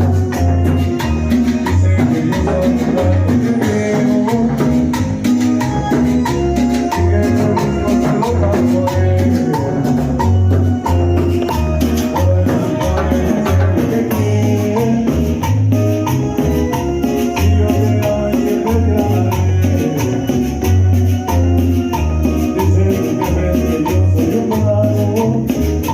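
A band playing Latin dance music, with a steady repeating bass beat under a melody and percussion.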